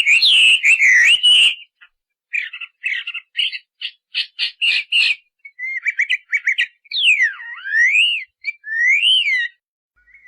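Bird calls: a phrase of fast whistled chirps, a short silence, a rapid run of short clipped notes, then several swooping whistles that slide down and back up.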